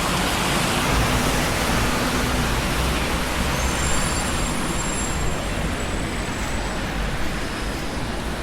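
Traffic on a busy city street: a steady rush of passing vehicles with a low engine rumble, easing slightly toward the end.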